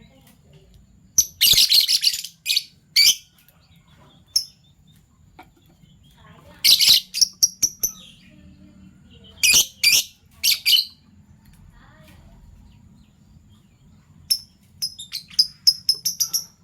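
Fischer's lovebirds chirping: loud, shrill, high-pitched chirps in short clusters, ending in a quick run of chirps near the end.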